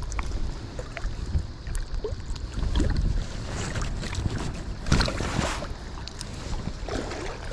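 Wind buffeting the microphone in a steady low rumble, with scattered small clicks and a brief rush of noise about five seconds in.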